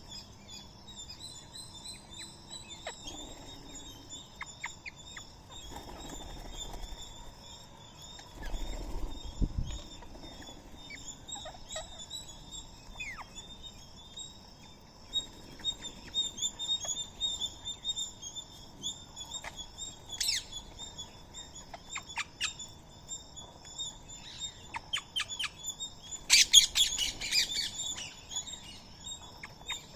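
Birds chirping and calling, with many short chirps and a louder burst of calls about 27 seconds in, over a steady high-pitched pulsing background.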